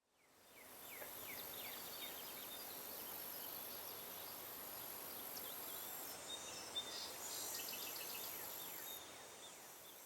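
Outdoor country ambience fading in: many birds chirping in short falling calls over a high, steady insect buzz that drops out briefly a couple of times, with a soft hiss underneath.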